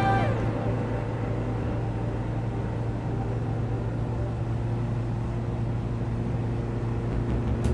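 Electric fan running: a steady low motor hum under a constant rush of air.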